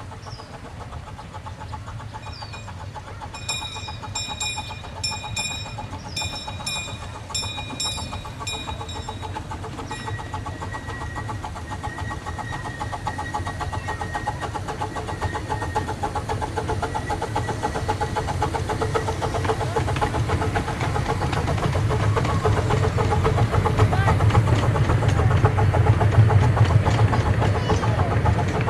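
Small 15-inch gauge live-steam locomotive drawing closer with its train, its running and the rumble of the cars growing steadily louder. A bell rings in quick repeated strokes for several seconds a few seconds in.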